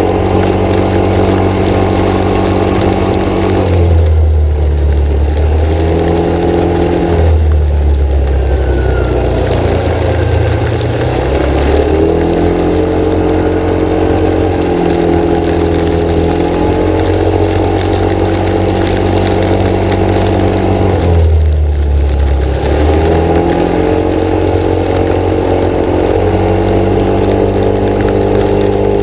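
A motor engine running continuously, its pitch shifting up and down at times as its speed changes, with a few brief lower, rougher stretches.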